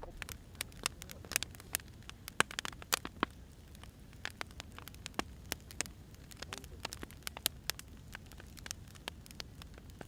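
Wood fire crackling: irregular sharp pops and snaps over a low steady rumble, with a few louder pops a couple of seconds in.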